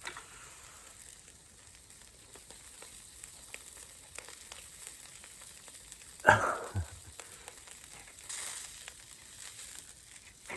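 Spicy chicken sizzling over glowing charcoal, a steady low sizzle with small crackles. One brief louder knock about six seconds in.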